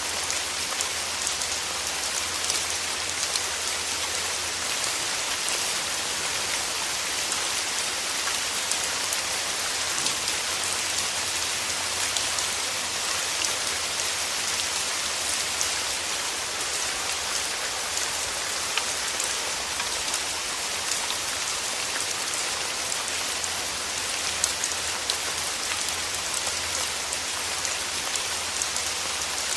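Steady rain: an even, dense patter of drops, with many small sharp ticks of individual drops striking close by.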